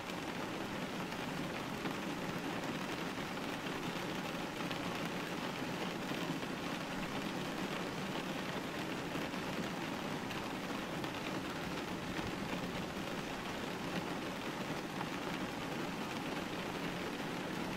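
Steady rain hitting a window pane: an even, unbroken hiss with faint scattered ticks of single drops.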